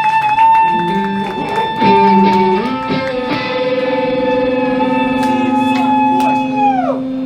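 Live electric guitars playing: a long held high note rings over lower changing notes, then slides down in pitch and drops away near the end.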